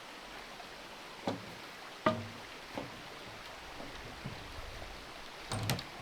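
A handful of short knocks over a steady background hiss: two about a second and two seconds in, the sharpest, one near three seconds, and a quick double knock near the end.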